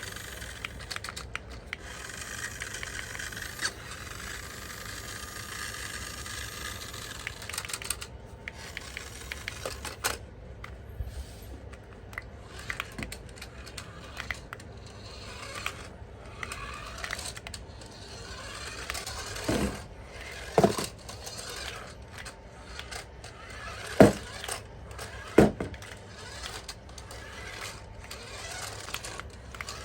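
Hands handling toy packaging and plastic parts: scraping and rustling with many small clicks, and four sharp knocks in the second half.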